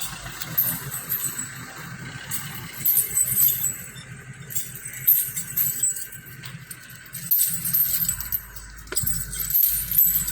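Intermittent light metallic clinking and jangling, typical of the iron chains on a captive elephant's legs as it shifts and moves, over a low steady hum.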